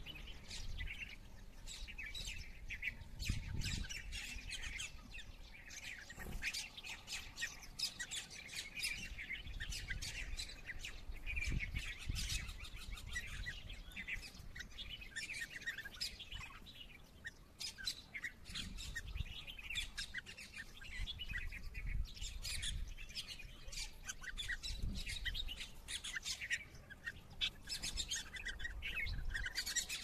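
Birds chirping and calling continuously in dense, overlapping chirps, with occasional low rumbles underneath.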